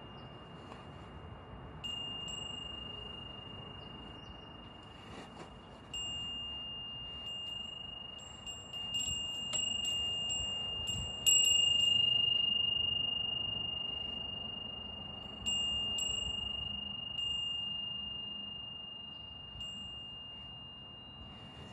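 Large sahari-alloy Goten wind chime from Odawara Imono Kenkyusho struck by its clapper in natural wind: one high, pure note rung again and again at uneven intervals, each stroke ringing long and fading slowly. Strikes come in a quick cluster around the middle, the loudest about halfway through.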